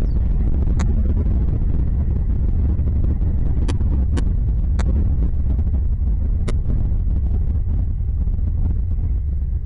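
A steady, loud low rumble, with five short sharp clicks scattered through it.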